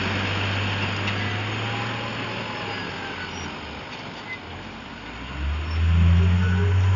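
A truck's diesel engine running with a low drone that fades away over the first three seconds or so, then swells back up loudly a little after five seconds in, over the noise of the quarry.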